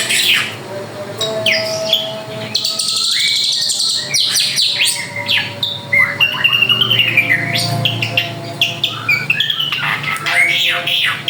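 A drongo (srigunting) singing a continuous, varied song of sharp chirps and whistled notes, with a harsh buzzy phrase about three seconds in.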